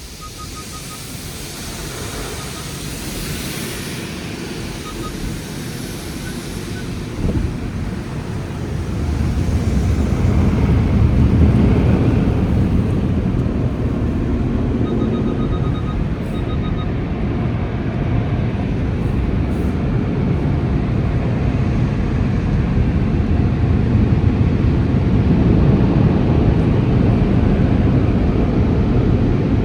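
Conveyor tunnel car wash heard from inside the car: a spray hiss fades over the first few seconds. Then, from about eight seconds in, the heated dryer blowers take over with a loud, steady blowing noise that keeps on. Short runs of faint beeps sound twice.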